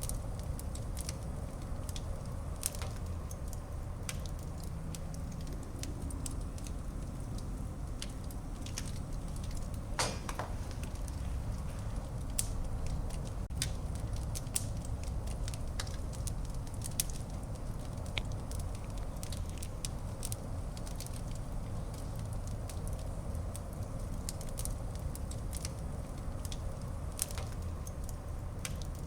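Wood fire burning in a fireplace: a steady low rumble of flames with scattered sharp crackles and pops, one longer pop about ten seconds in.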